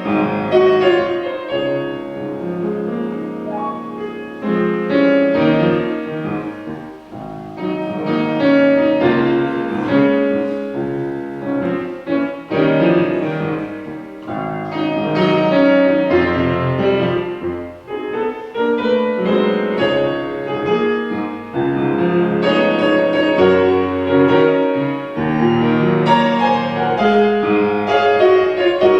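Piano playing continuously, with many overlapping notes and chords.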